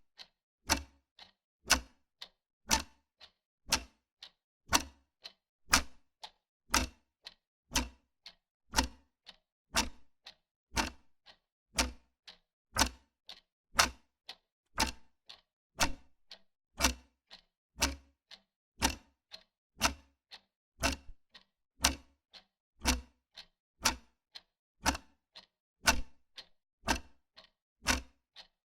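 Wall clock ticking steadily, about two ticks a second, alternating a stronger and a weaker tick.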